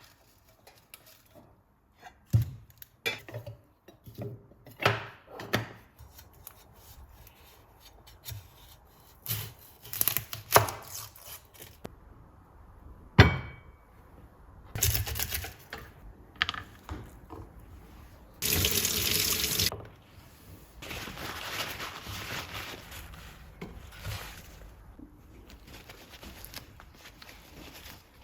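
Kitchen tap running into a sink in short spells, the longest and loudest lasting about a second past the middle, among scattered knocks and clatter of kitchenware being handled.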